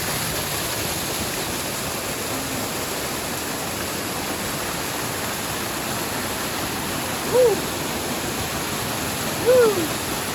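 Steady rushing water of a waterfall. Two short calls, each rising then falling in pitch, come about two seconds apart near the end.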